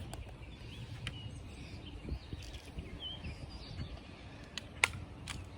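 Small birds chirping faintly over a low wind rumble, with a few sharp clicks, the loudest about five seconds in.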